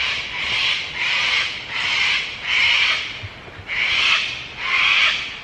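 Rainforest wildlife calling: a run of about six harsh, rasping pulses, each under a second long, repeating roughly every second.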